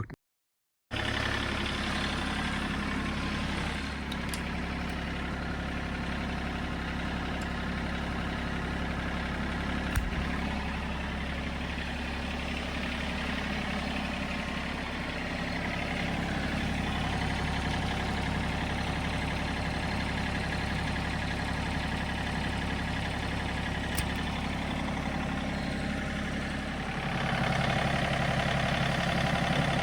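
John Deere 3 series compact tractor's diesel engine running steadily; near the end its note changes and gets louder.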